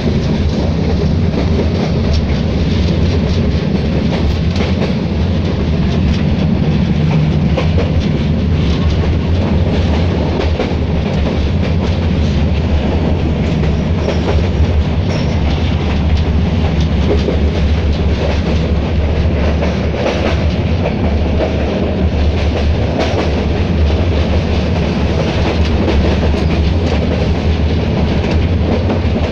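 Small-gauge passenger train running, heard from inside the coach: a steady low rumble with the clatter of wheels on the rails.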